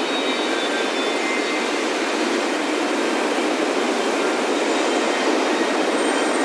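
Ocean surf breaking on a beach: a steady, even rush of waves. Metal wind chimes ring faintly over it, a few thin high tones that sound and fade.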